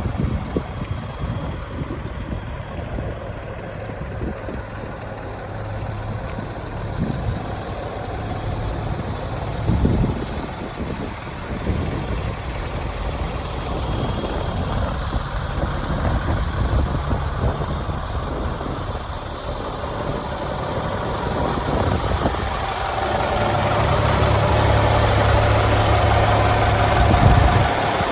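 Caterpillar 3126 inline-six diesel of a Freightliner FL80 truck idling steadily, growing louder for the last few seconds.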